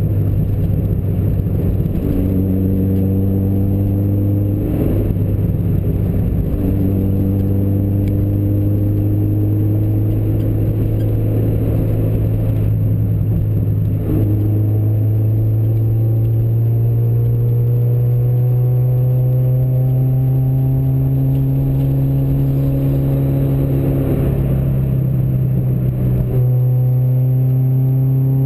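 Car engine running steadily while driving at speed, under a low rumble of road noise. Its pitch shifts at a few points and climbs slowly through the second half as the car speeds up.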